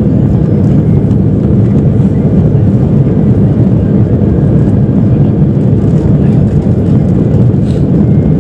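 Jet airliner cabin noise: the engines and rushing air heard from inside the cabin as a steady, even low rumble during the climb-out after takeoff.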